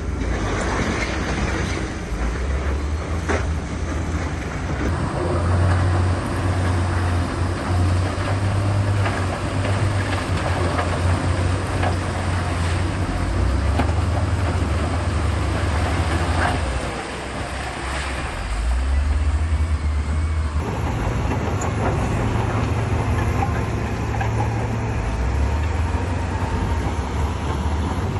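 Diesel engines of heavy earthmoving machinery running and working under changing load, a deep rumble that rises and falls, with scattered knocks and clatter.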